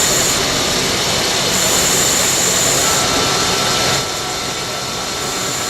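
CNC lathe running a metal-turning cut: a steady, loud machining hiss with a high whine that comes and goes. A fainter steady tone joins about three seconds in, and the sound drops somewhat in level about a second later.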